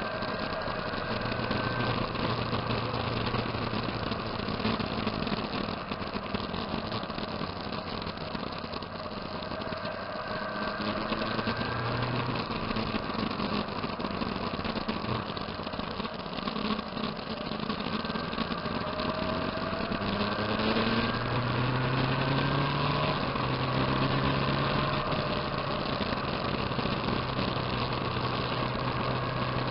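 Several motorcycle engines running at once, some steady near idle and others rising and falling in pitch as they change speed, with a steady low engine hum growing louder about two-thirds of the way through.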